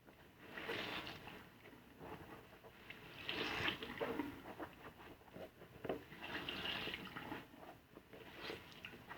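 Soapy car-wash sponge being squeezed and worked, wet squelching and trickling water in a few separate swells.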